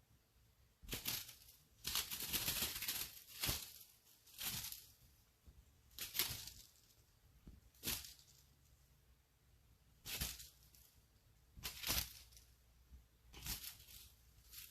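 Irregular bursts of dry rustling and scratching, each from a fraction of a second to about two seconds long, coming every second or two.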